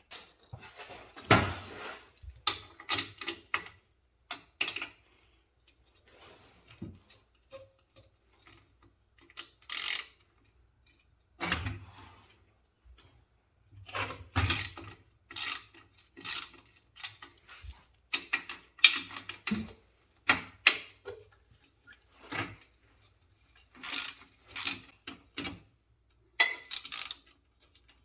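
Wrench work on the bolts holding a small locomotive's jackshaft bearings: short, irregular bursts of metal clicking and knocking with pauses between them.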